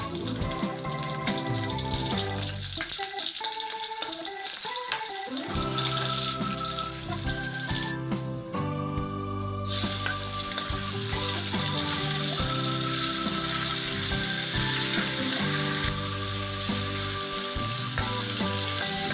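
Shallots, garlic and raw chicken sizzling as they fry in hot oil in a wok, the sizzle growing louder and steadier about halfway through. Background music plays throughout.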